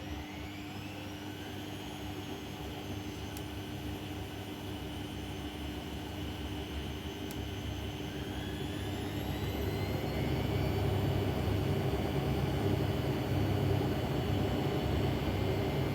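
Bosch Maxx WFL 248Y washing machine's motor whining as the drum speeds up in two steps, one at the start and one around the middle, getting louder as it goes.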